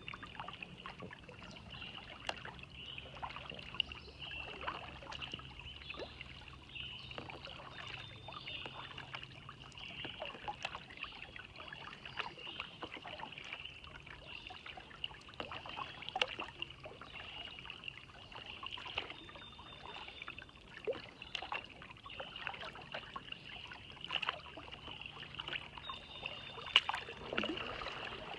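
Kayak paddling on calm water: irregular small splashes and drips from the paddle, with water trickling. Under it runs a steady high-pitched drone.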